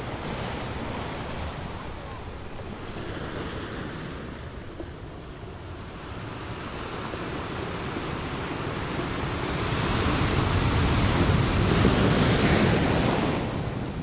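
Steady rushing noise of wind and waves, swelling louder about ten seconds in and easing again near the end.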